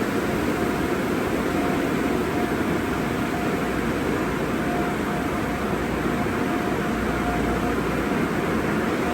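Sonny's car wash tunnel equipment running with a steady rushing noise, with a faint whine that cuts in and out throughout.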